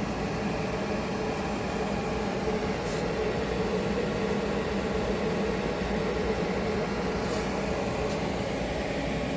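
Conveyor on a Takamaz J-Wave Plus CNC lathe running: a steady mechanical hum with a few faint ticks.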